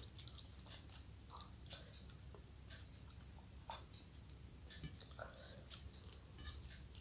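Faint chewing and wet mouth clicks of someone eating a mouthful of food, a scatter of short soft smacks.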